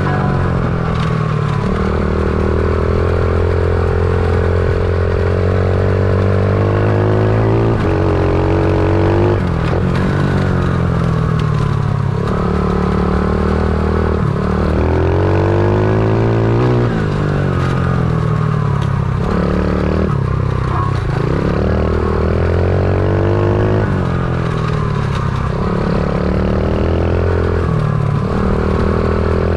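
Stomp pit bike's small single-cylinder four-stroke engine under way, its pitch climbing hard and then dropping again every few seconds as the throttle is opened and closed.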